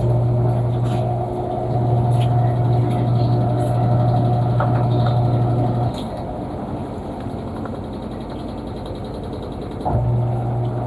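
Panasonic washing machine motor humming as it drives the wash. It runs for about six seconds, stops, then starts again near the end, in the stop-start rhythm of a wash cycle's agitation.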